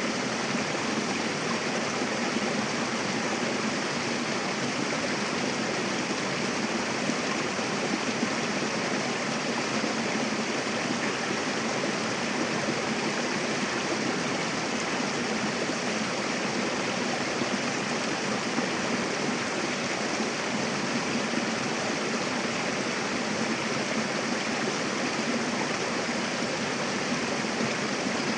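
Mountain river rushing over rocks, a steady, even splashing and gurgling with no breaks.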